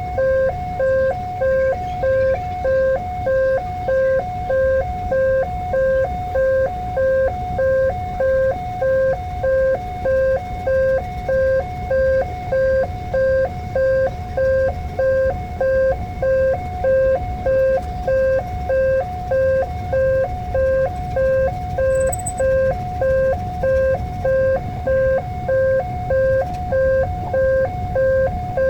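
Electronic level-crossing warning bell sounding its repeating two-tone ding-dong, a little over once a second, signalling that the barrier is down and a train is coming, over a low traffic rumble.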